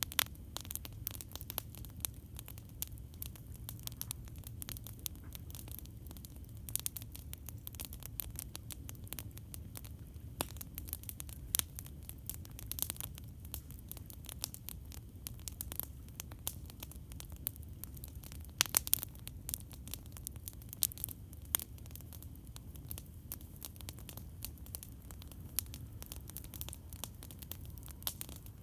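Campfire crackling: irregular sharp pops and snaps of burning wood over a steady low rumble, with a quick cluster of louder pops about two-thirds of the way through.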